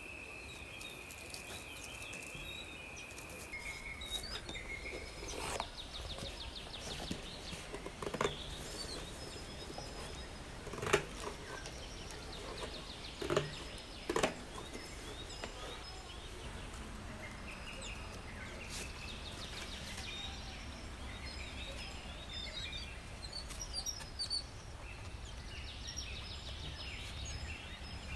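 Outdoor ambience with birds chirping in repeated short trills, over a low steady rumble. A steady high tone holds for the first few seconds, and a handful of sharp knocks or taps fall in the first half, the loudest around the middle.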